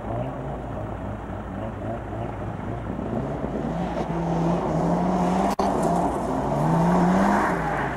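Classic Mini's A-series four-cylinder engine revving while the car is held on the start line: a lumpy lower running at first, then the revs rise in two surges in the second half and drop away near the end.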